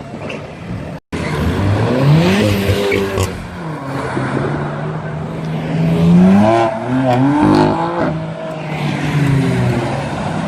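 Modified car engines revving and accelerating away, the engine pitch climbing and then stepping down at gear changes, with a couple of sharp cracks among the revs.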